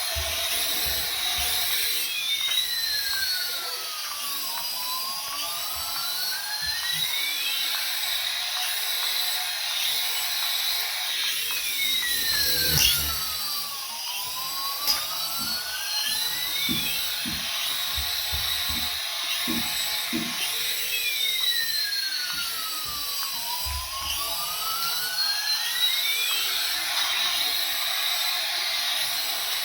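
Battery-powered toy running with a high-pitched electronic whine. About every ten seconds a pitch sweep drops and climbs back again, three times in all, with scattered light knocks underneath.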